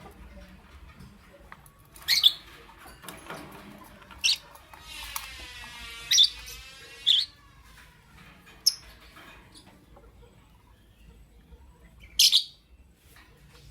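Lovebirds giving about six short, high-pitched calls, with a stretch of raspy chattering a few seconds in.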